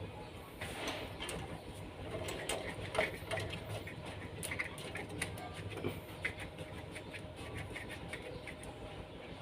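Irregular small clicks, taps and scrapes of parts and tools being handled while a washing machine is opened up to clear its blocked drain, over a faint low hum.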